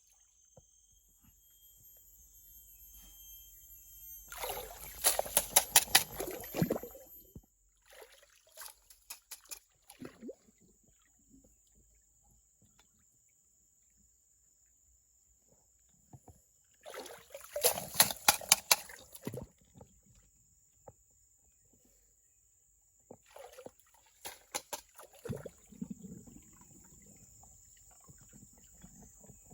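Water splashing and sloshing in four bursts of a few seconds each, with quiet gaps between, over a faint steady high-pitched tone.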